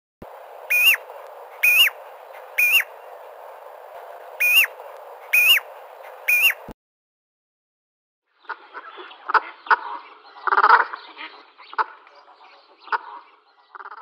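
Bird calls: six short, loud calls, each a quick rise and fall in pitch, in two groups of three over a steady hiss. They cut off suddenly. After a short silence comes a busier run of quick chirps and clicks.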